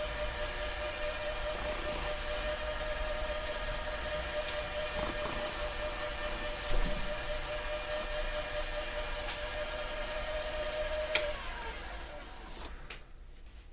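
Electric motor of a workshop power tool running with a steady whine, switched off with a click about eleven seconds in and winding down with a falling pitch.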